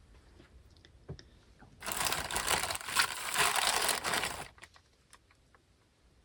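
Crinkling, rustling noise of something being handled, like plastic or paper, loud for about two and a half seconds starting about two seconds in. A few light clicks come before it.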